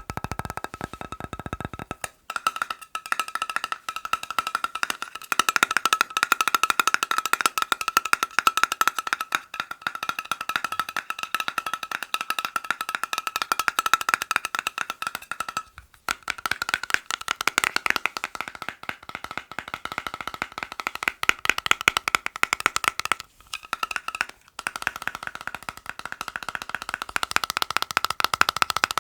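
Fast tapping on hard objects: a dense, rapid stream of clicks, with a steady ringing tone under the taps for much of the time. It breaks off briefly three times.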